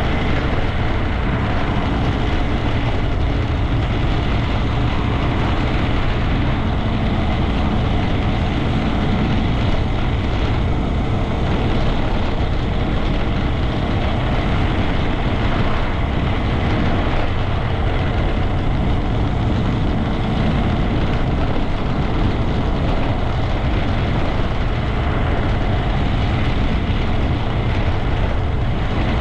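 Honda Grom 125's single-cylinder engine running steadily as the bike is ridden, with an even, unbroken sound throughout.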